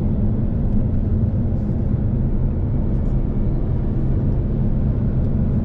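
Steady low drone of a car driving on a motorway, heard inside the cabin: engine and tyre noise at constant speed.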